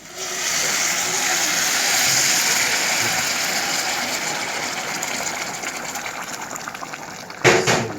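Chicken broth poured onto hot rice that has been fried in oil and butter, hissing and sizzling loudly as it hits the pot, then slowly dying down as the rice starts to boil. A short knock near the end.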